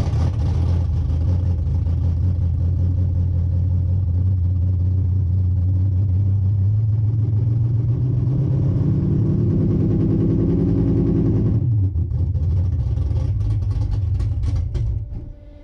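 Corvette drag car engine running on its first start after a fresh oil and filter change, with good oil pressure. It is revved up over a few seconds, drops back sharply, then is shut off near the end.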